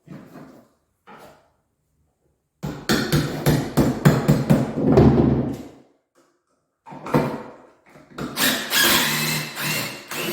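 Hammer drill boring into a crumbly black clinker-block wall for wall plugs, in two runs of about three seconds each; the second starts about seven seconds in.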